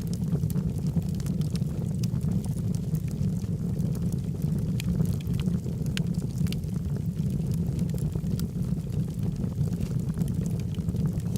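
Log fire burning in a fireplace: a steady low rush of flames with frequent sharp crackles and pops from the burning wood.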